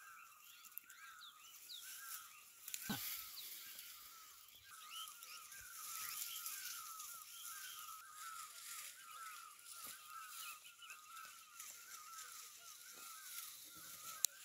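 Small birds chirping in a rapid, continuous run of short repeated calls, with occasional higher whistled notes over a faint rustle. A brief thump comes about three seconds in.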